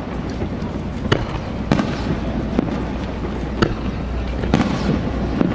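Aerial fireworks bursting: a string of sharp bangs, roughly one a second, over a steady low rumble.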